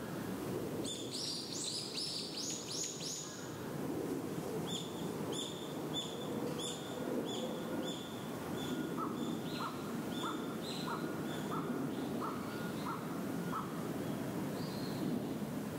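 Wild birds calling outdoors: a quick run of high chirps, then one bird repeating a short high note about every two-thirds of a second, and later a lower note repeated a few times a second, over steady low background noise.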